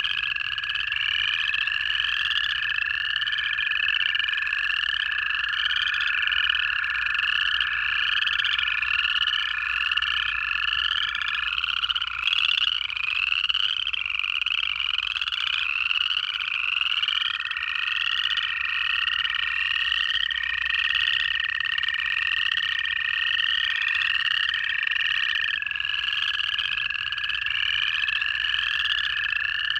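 Winter frog chorus of upland chorus frogs giving overlapping ascending trills, one after another. Beneath them run long, steady American toad trills, with one toad stopping about a third of the way in and another starting past the halfway mark.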